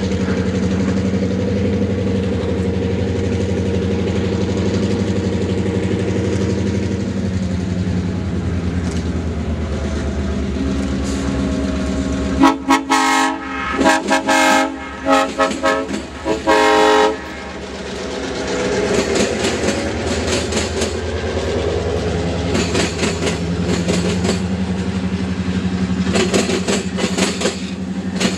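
Diesel locomotive engine running steadily, then the locomotive's air horn sounding a series of blasts over about four seconds, followed by the rumble and clatter of the train rolling past.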